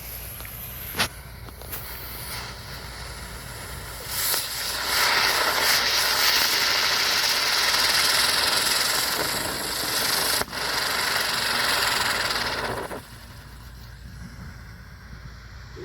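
Pagoda firework spinning on the ground and throwing sparks: a loud steady hiss that builds about four seconds in, runs for about eight seconds with a brief break, then cuts off suddenly as it burns out. A sharp click about a second in comes before it.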